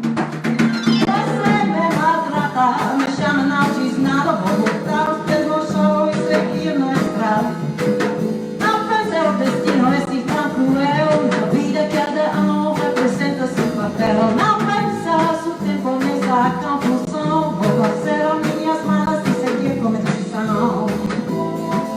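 A live jazz band playing a Brazilian jazz piece: a quick melodic line over sustained bass notes, with light, steady percussion.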